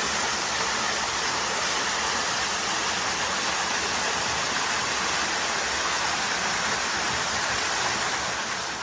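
Waterfall running, a steady even rush of falling water that fades slightly near the end.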